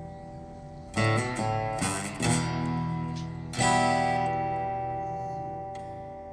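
Background music: acoustic guitar strumming slow chords that ring out and fade, with a few quick strums about a second in.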